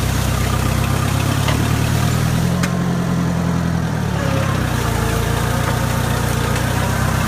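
Oliver tractor engine running steadily under load as it strains to drag a heavy old truck; its note changes about four and a half seconds in.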